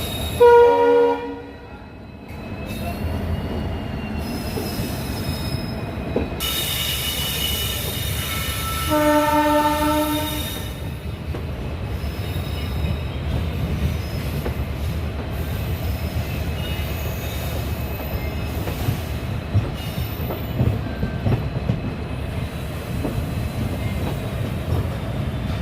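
Passenger express train running at speed, with a steady rumble of wheels on the track heard from on board. The locomotive horn sounds twice: a short loud blast about half a second in and a longer blast about nine seconds in.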